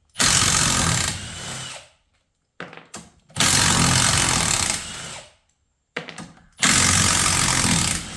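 Power tool, most likely a cordless impact wrench, hammering as it loosens tight 12 mm bolts on an automatic transmission case. It runs in three bursts of about one and a half to two seconds each, each loudest at the start and easing off as the bolt breaks loose.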